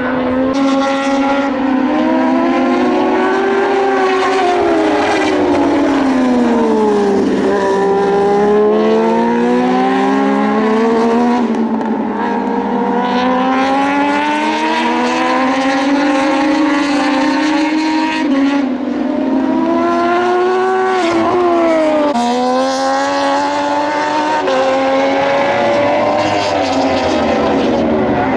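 Several Moto2 racing motorcycles with Triumph 765 cc three-cylinder engines running hard. Their pitch rises through the gears and drops as the riders brake and downshift, with more than one bike heard at once.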